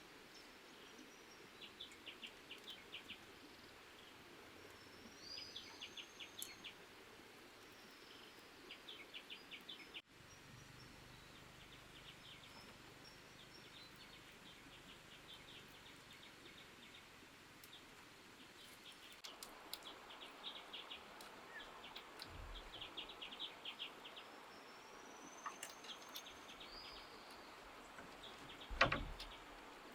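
Small birds chirping in quick runs of short high notes, now and then a longer whistled call, over faint outdoor background noise. A single thump near the end is the loudest sound.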